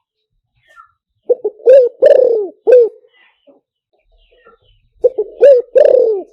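Spotted dove cooing, a call recording used as a decoy to lure wild doves. Two loud phrases a few seconds apart, each a couple of short notes followed by longer coos.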